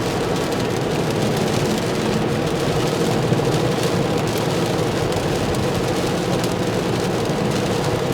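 Steady road and tyre noise heard inside a Tesla Model 3's cabin at highway speed on a rain-wet road, an even hiss with a faint steady hum running through it.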